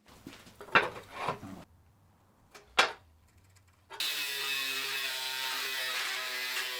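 Metal parts clank and knock a few times, with two sharp strikes. About four seconds in, an electric power tool starts up and runs steadily with a high whine.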